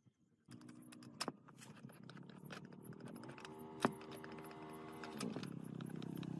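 A motor running with a steady pitch, rising a little partway through and settling back, over metallic clicks and rattles; it starts about half a second in and grows slowly louder.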